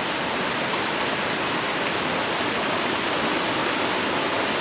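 Steady rushing of fast-flowing water, from a jungle river or its falls.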